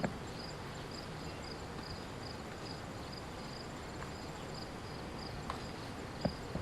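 An insect chirping steadily in a regular rhythm, about two or three short high chirps a second, over a steady outdoor hiss. There are a few light knocks, one at the start and two near the end.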